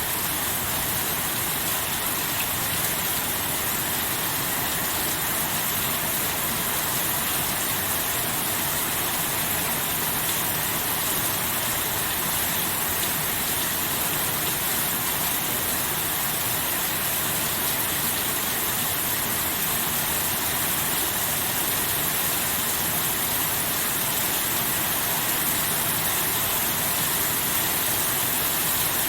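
Steady rain: a dense, even hiss with no thunder.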